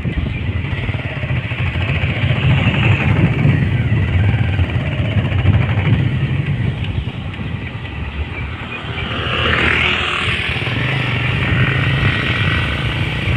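Motorcycle engine running on the move, with steady road and wind noise. About ten seconds in a brief louder rush of noise swells and fades.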